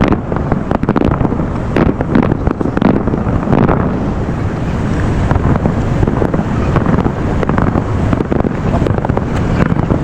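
Fireworks going off in rapid, overlapping bangs and crackles, thickest in the first few seconds, with wind buffeting the microphone.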